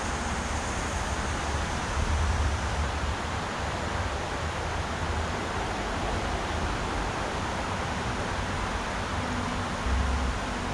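Mountain river rushing steadily over rocks, an even hiss of moving water. Brief low rumbles about two seconds in and near the end.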